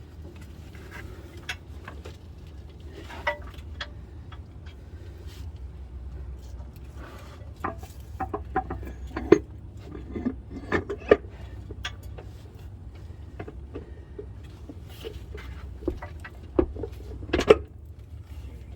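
Scattered metal clinks and knocks as a torque converter is worked onto the input shaft of an RE7R01A seven-speed automatic transmission, over a steady low hum. The loudest knocks come in the second half.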